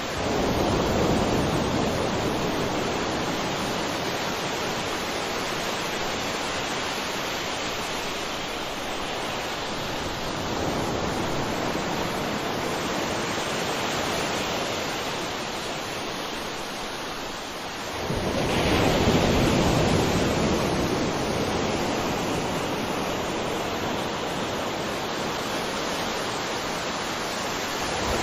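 Sea waves breaking and washing on the shore in a steady rush, swelling as a wave breaks near the start and again about two-thirds of the way through.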